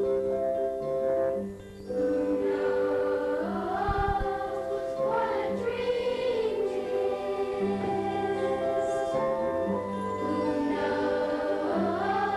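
Youth choir singing a song without clear words, in long held notes that glide between pitches.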